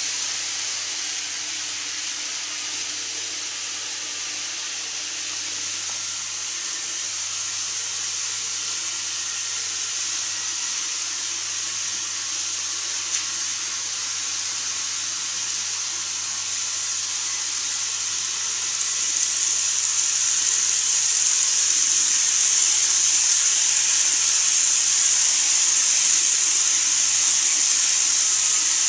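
N-scale model train running on track: a steady hiss of wheels and motor that grows louder from about two-thirds of the way through.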